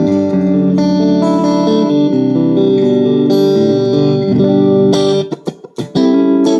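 AIERSI ST11 HSS electric guitar played: held chords and notes that ring into one another, changing every half second or so. About five seconds in it switches to short, choppy chord stabs with brief gaps between them.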